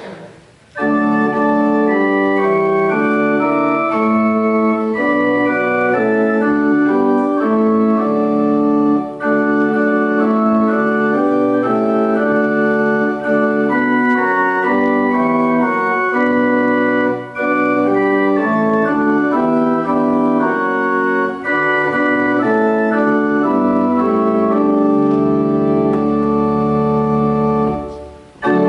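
Organ playing a slow tune in sustained chords. It starts about a second in and breaks off briefly just before the end.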